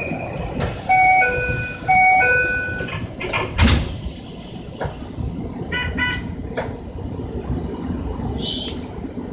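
Train door chime giving a two-note ding-dong twice, then a heavy thump about three and a half seconds in as the doors shut, followed by scattered clicks and hiss.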